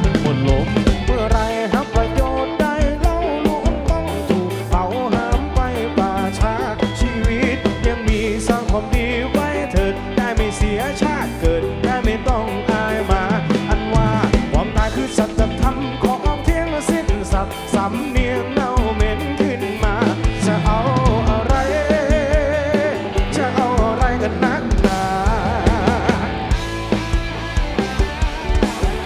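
Live rock band playing, with drums keeping a steady beat under a wavering lead melody line.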